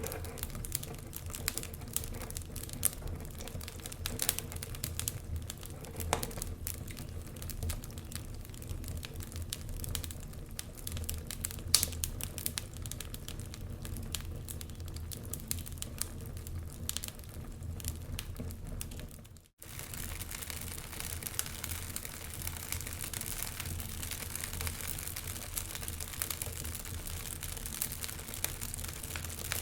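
Wood fire burning in a fireplace: dense crackling and snapping over a steady low rumble, with one sharper pop about twelve seconds in. The sound cuts out for an instant about twenty seconds in, then resumes with a more even, hissing crackle.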